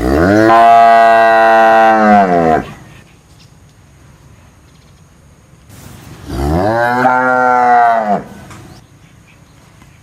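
A cow mooing twice, two long loud calls a few seconds apart, each rising in pitch at the start and falling away at the end.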